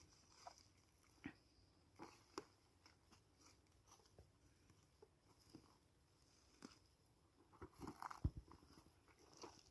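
Near silence broken by faint, scattered clicks and small crackles, a little busier near the end.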